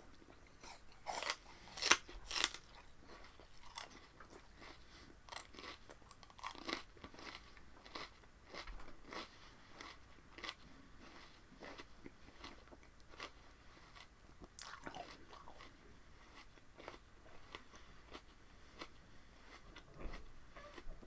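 Close-up chewing of raw spinach stalks: crisp, irregular crunches, with a few louder bites in the first few seconds, then softer chewing.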